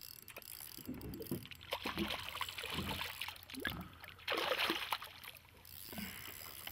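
Water splashing and sloshing against a boat's hull at sea, with a louder burst of splashing about four and a half seconds in.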